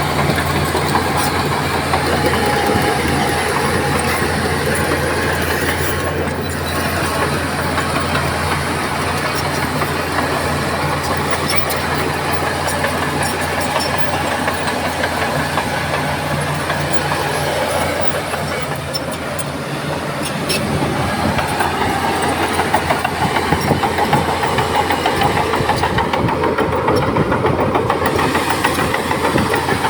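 Heavy diesel earthmoving machinery, a bulldozer and a dump truck, running steadily under load. It gets louder about two-thirds of the way through.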